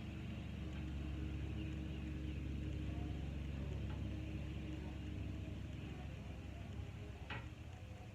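An engine running steadily, easing off a little near the end, with a single sharp click about seven seconds in.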